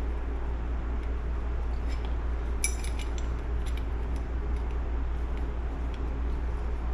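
Small steel engine parts clinking and tapping against each other as they are worked into place by hand, with one brighter ringing metallic clink a little before three seconds in, over a steady low hum.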